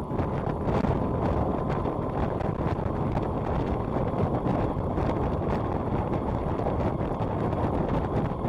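Steady wind rush buffeting the microphone on a moving motorcycle, with the motorcycle's running and road noise underneath.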